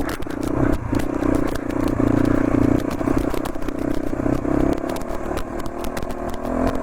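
Motorcycle engine running steadily, with many sharp clicks and clattering sounds throughout.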